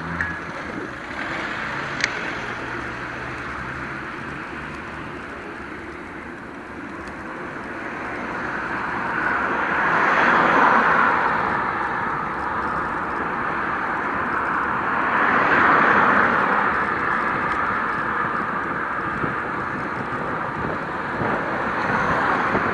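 Rushing wind and road noise of a bicycle ride, swelling twice, about ten and about sixteen seconds in, with one sharp click about two seconds in.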